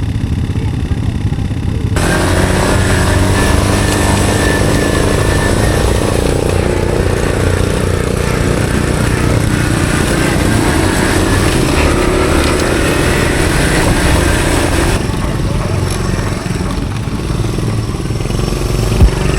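Honda CT110 postie bike's small single-cylinder four-stroke engine running while riding. It gets louder and noisier about 2 s in and eases back near 15 s.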